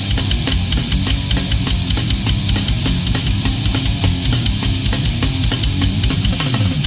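Death crust metal: heavily distorted electric guitars and bass over full drum kit, with fast, even bass-drum beats.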